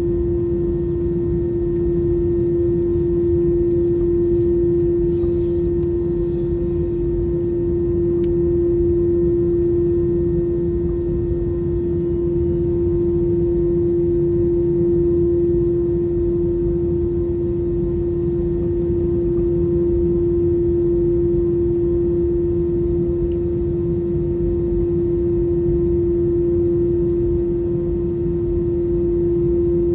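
Airbus A321's CFM56 engines idling, heard from inside the passenger cabin during taxi: a steady low rumble under a constant hum.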